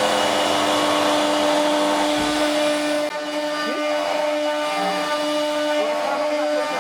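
Steady high-speed motor whine over a hiss, as of a CNC router spindle running. The high hiss drops away suddenly about three seconds in, while the whine carries on.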